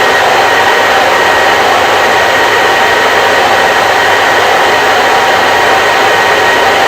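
Hair dryer running steadily: an even rush of air with a faint steady whine from the motor.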